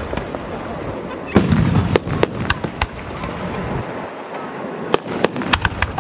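Aerial fireworks shells bursting: a deep boom about a second and a half in, followed by a run of sharp bangs, then a quick cluster of cracks near the end.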